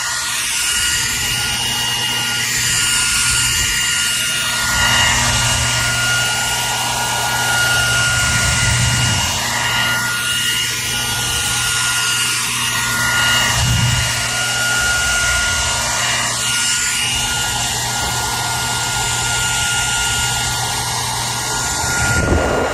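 Hair dryer running steadily: a continuous rush of blown air over a high, even motor whine, the hiss slowly shifting in tone.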